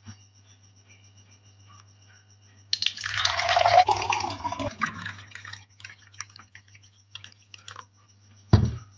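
Liquid pouring and splashing for about three seconds, followed by a few small clicks and one dull thud near the end, over a steady low hum.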